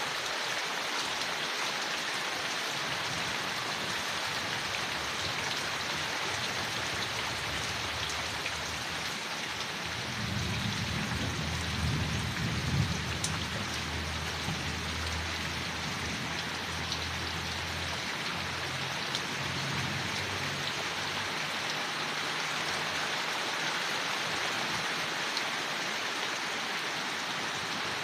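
Steady rain falling on leaves, an even patter throughout. About ten seconds in, a low rumble rises under it and fades away over the next ten seconds or so.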